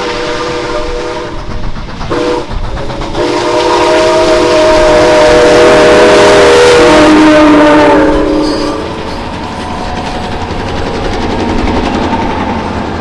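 Canadian Pacific 2816, a Hudson-type steam locomotive, blowing its chime whistle: a blast with a short break about two seconds in, then a long, loud blast that dies away shortly after the middle. The train's running rumble carries on after the whistle.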